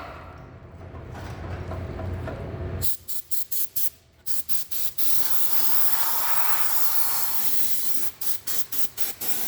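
Compressed-air blow gun blasting dirt and rust off a truck frame: a run of short hissing bursts, a long steady blast of air, then more quick bursts near the end.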